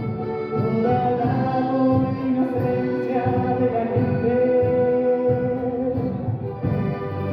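Orchestra of Andean and Latin American instruments playing live: held melodic notes moving in steps over a pulsing low accompaniment.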